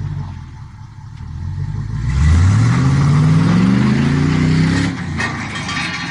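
A motor vehicle's engine runs low, then from about two seconds in revs up, rising steadily in pitch for nearly three seconds before dropping off abruptly.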